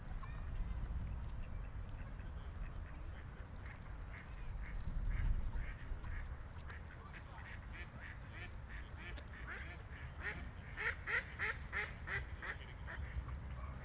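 Ducks quacking in a quick run of short calls, about three a second, growing loudest near the end, over a steady low rumble.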